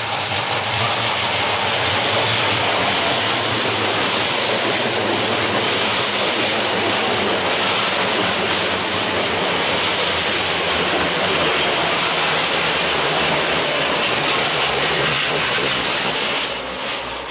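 Two coupled Class 334 electric multiple units passing close by at speed: a steady, loud rush of wheels on rail and air, which swells in the first second and falls away near the end as the last coach goes by.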